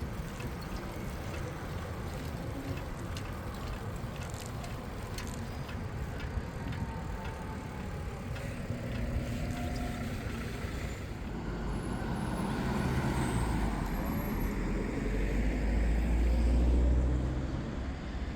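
Street traffic heard from a moving bicycle, with scattered light clicks in the first few seconds. A motor vehicle passes close, its deep rumble growing from about two-thirds of the way through to the loudest point near the end, then dropping away.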